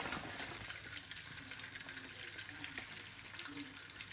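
Buttered bread frying in shallow vegetable oil in a frying pan: a steady, soft sizzle with fine crackles.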